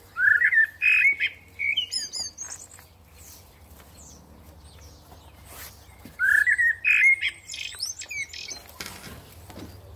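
Songbird singing: two matching phrases about six seconds apart, each a quick run of rising chirps followed by higher, thinner notes.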